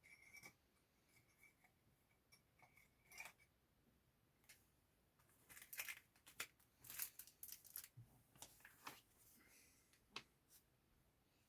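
Faint scattered clicks and rustles of small things being handled, busiest from about the middle on; otherwise near silence.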